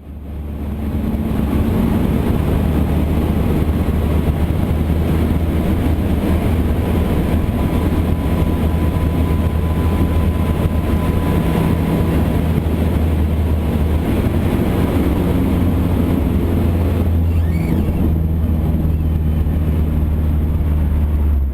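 Cessna 152 Aerobat's four-cylinder Lycoming engine and propeller droning steadily in flight, fading in over the first second.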